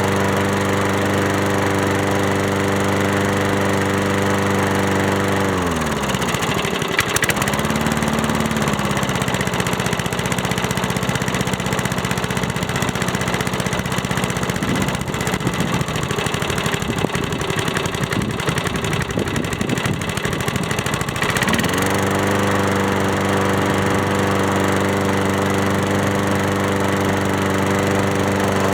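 1979 Ace Hardware push mower's small engine running steadily, now that its ignition points have been cleaned. About six seconds in its speed drops sharply and it runs slower and rougher for about fifteen seconds, then it speeds back up and runs steadily again.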